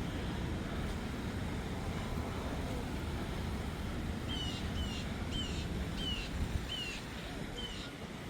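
Steady low outdoor rumble. In the second half, a bird repeats a short downward-slurred call about seven times, roughly twice a second.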